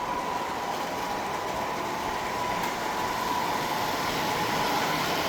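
Model trains running on a miniature layout: a steady whirring noise with a faint steady hum, getting a little louder toward the end.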